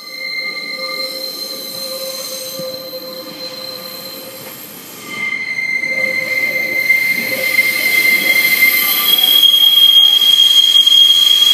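Steel wheels of a Class 144 Pacer diesel railbus squealing as it pulls into the platform: several shrill steady tones. The squeal grows louder about halfway through, and a higher squeal takes over near the end.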